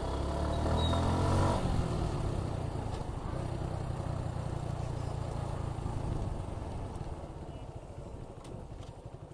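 Motorcycle engine, a Suzuki Gixxer 155 single-cylinder, rising in revs over the first second and a half, then running steadily and dying away over the last few seconds as the bike slows.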